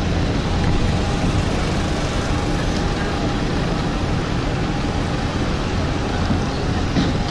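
Steady low rumble and hiss of vehicle noise, with a faint steady hum above it.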